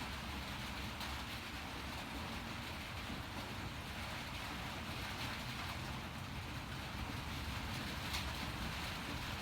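Steady rain falling on a metal-shingled roof, an even hiss with a few faint ticks.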